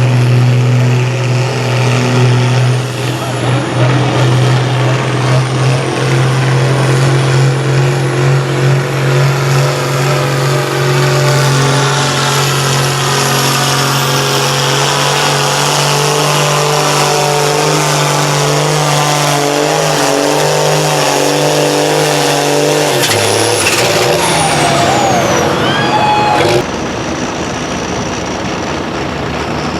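John Deere pulling tractor's diesel engine running hard and steady under load down the track. About 23 seconds in it drops off, with a falling whistle as it winds down.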